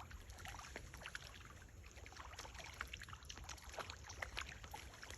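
Faint outdoor ambience: a steady low rumble of wind on the microphone, with many small scattered clicks and ticks.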